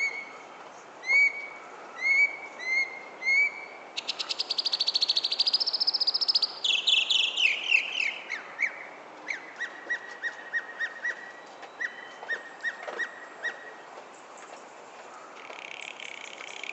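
A songbird singing a varied, changing sequence: about four short rising whistled notes, then a fast buzzy rattle lasting about two seconds, a falling run of notes, and a long series of quick short chips, with a brief buzzy note near the end.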